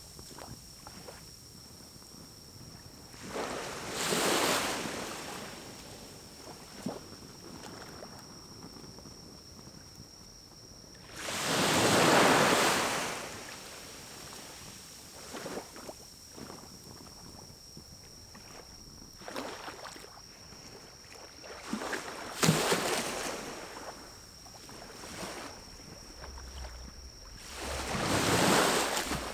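Pine cones burning in a small wood-burning stove, crackling with small scattered pops, while a whooshing rush of air swells and fades four times, loudest about the middle.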